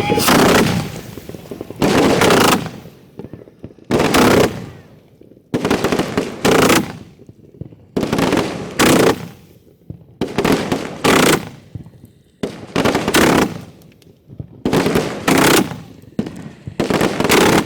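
Fireworks finale heard at close range from the firing site: loud booms in quick succession, about one every second or two and often in pairs, each dying away within a second.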